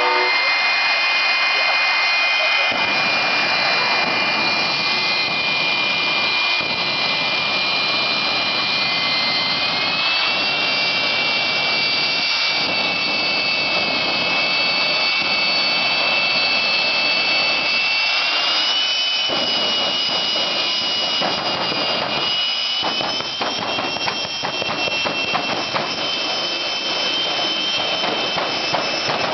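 Jet dragster's turbine engine running with a loud steady roar and a high whine. The whine steps up in pitch three times, about a third of the way in, past the middle and later.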